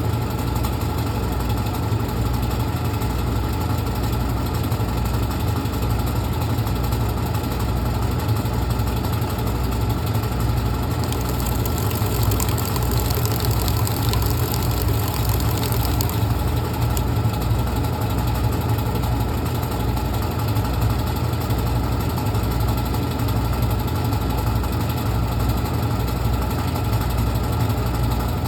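Brastemp Clean washing machine running steadily: a motor hum with a regular low throb. A higher hiss joins for about five seconds midway.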